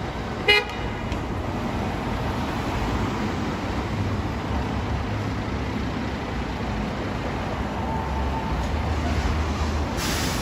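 Fire engine's diesel engine rumbling steadily, with a short horn toot about half a second in and a brief burst of hiss near the end.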